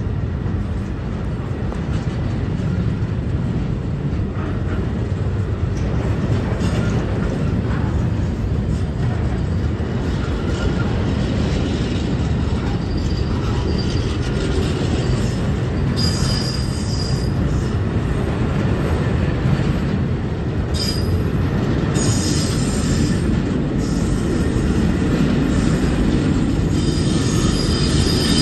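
Freight train rolling along the track with a steady low rumble, its wheels squealing shrilly in short bursts several times in the second half.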